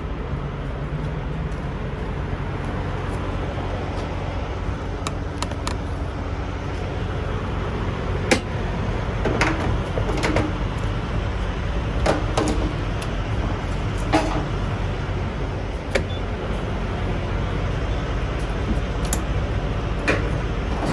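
Steady low rumble of idling diesel trucks at a truck-stop fuel island during diesel fueling, with short clunks and knocks scattered through the second half, such as a fuel nozzle, fuel cap or door being handled.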